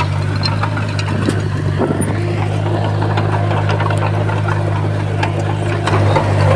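Komatsu bulldozer's diesel engine running steadily, with scattered short clicks and knocks over it.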